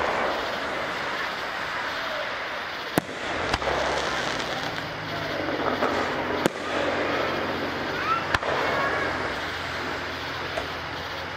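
Aerial fireworks shells bursting in sharp bangs, about three seconds in, again half a second later, then around six and a half and eight and a half seconds in, over a steady background of crowd chatter.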